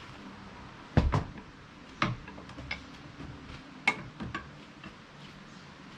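A handful of sharp knocks and clanks: a loud double knock about a second in, another about two seconds in, and a quick pair near four seconds, as a heavy log is worked and levered by hand.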